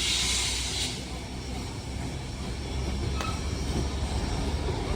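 Steam locomotive 3526 hissing steam; the hiss cuts off about a second in, leaving a steady low rumble.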